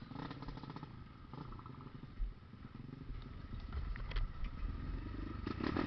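Engine of an off-road vehicle running through mud, with a few short knocks and clatters.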